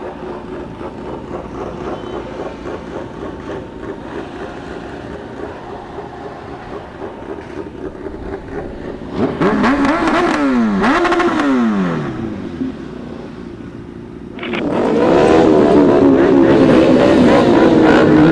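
Motorcycle engines running in a group. About halfway through, one bike revs loudly twice, its pitch rising and falling. From about three-quarters of the way in, engines go loud and steady as bikes pull out, with another rev near the end.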